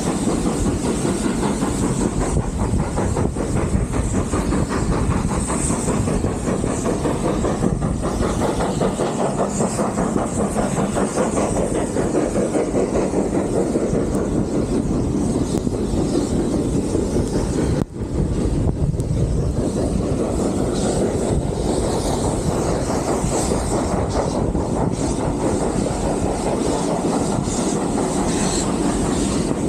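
Heritage steam train in motion, heard from on board: a steady heavy rumble of the carriages running along the track with wheel clatter. There is one brief break in the sound about eighteen seconds in.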